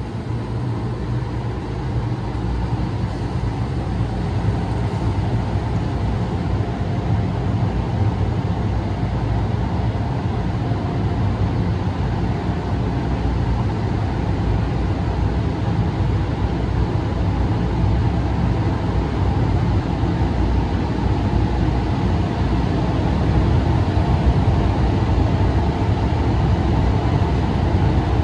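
Automatic gantry car wash machine working over the car, heard muffled through the car's body from inside the cabin. A steady, dense rumbling wash noise comes in sharply at the start and holds evenly.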